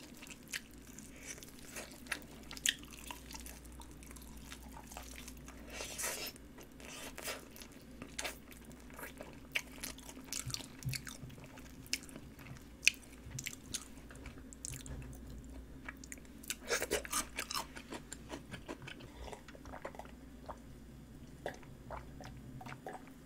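Eating sounds of glazed chicken drumsticks: chewing and biting with many short, sharp, irregular crunches and clicks.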